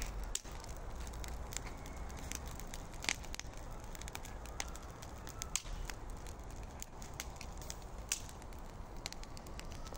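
Brazier fire of pine needles burning hard, crackling with irregular sharp pops over a steady hiss.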